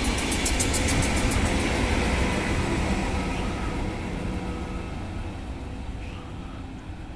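Renfe Media Distancia passenger train running past and pulling away, fading steadily, with a steady whine over its running noise. A rapid clicking of wheels on the rails runs through the first couple of seconds.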